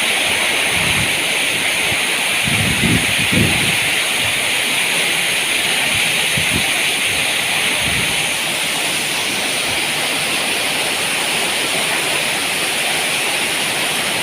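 Heavy rain pouring down in strong wind: a steady, loud hiss of downpour, with a few brief low rumbles from gusts in the first half.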